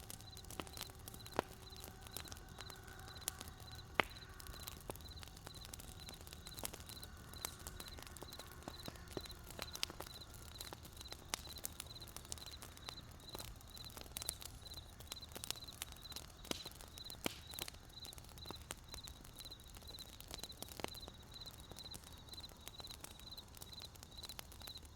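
Wood campfire crackling with scattered sharp pops, while a cricket chirps in a steady, evenly spaced high pulse behind it.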